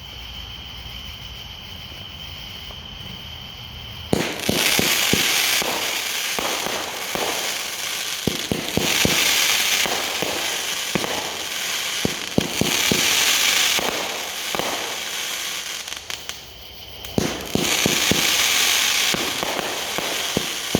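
Pyro Demon 'Time to Rain' 500-gram, 24-shot firework cake firing: about four seconds in, shots start launching one after another, each run followed by loud crackling from the bursting stars, with a brief lull about three-quarters of the way through before it fires again.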